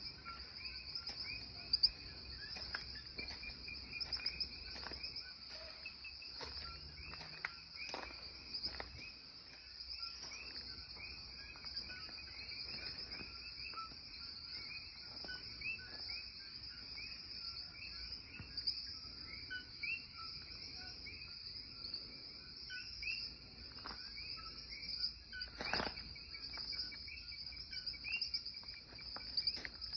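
Steady, dense chorus of rainforest insects chirping, with a few short clicks scattered through it.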